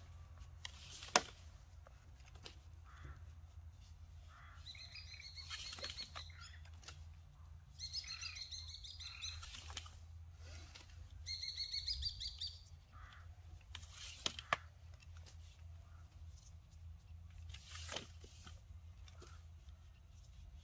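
A songbird twittering in three short bursts of quick, repeated high chirps. Under it come a few sharp knocks and clicks, the loudest about a second in, from handling the plastic pipe and cord while the cord is wound around the pipe.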